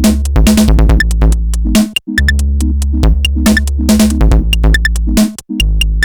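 Electronic beat music played on a Roland SP-404 sampler: a drum-machine pattern of sharp hi-hat-like ticks over a deep sustained bass. The whole mix cuts out briefly about two seconds in and again about five seconds in.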